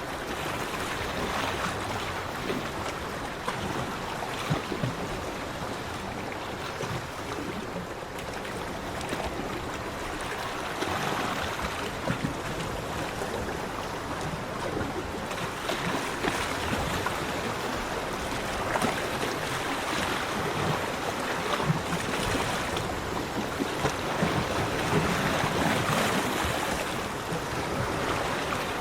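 Sea waves washing onto a beach: a continuous surf wash that swells and ebbs as each wave breaks, surging every few seconds in the second half.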